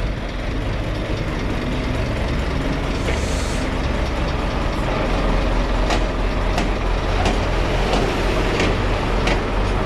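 Scania truck engine running steadily, working the car transporter's hydraulics as the loaded deck is raised. A short hiss of air comes about three seconds in, and a few sharp clicks come in the second half.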